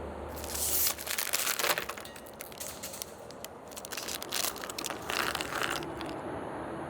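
Plastic snack packaging crinkling and crackling as it is handled, in four bursts a second or so long.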